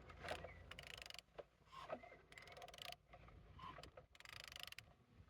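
Faint runs of ratchet-wrench clicks as the crankshaft of a Peugeot/Citroën TU3A (KFV) 1.4 petrol engine is turned over by hand, showing that the engine turns freely.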